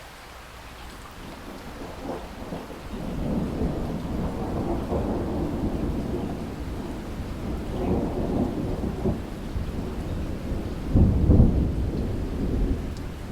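Rain falling steadily under a long roll of thunder that builds a couple of seconds in, rumbles on, and peaks in a loud clap near the end.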